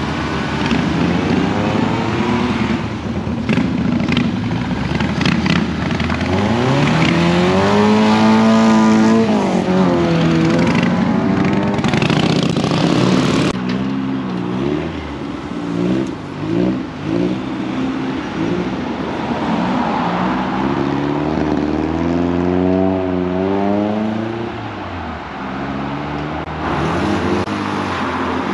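Cars accelerating away one after another, their engines revving up and dropping back between gear changes, loudest about eight seconds in.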